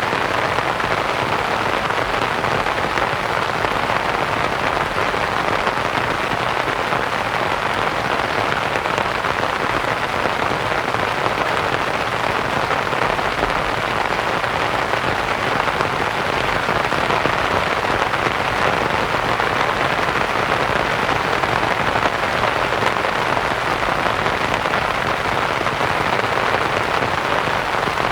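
Steady rain pattering on a canvas tent, mixed with soft white noise, an even hiss that does not change.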